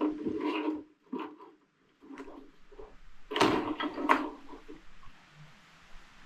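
Handling noises on a workbench: a series of irregular knocks and rattles, the loudest cluster about three and a half to four seconds in.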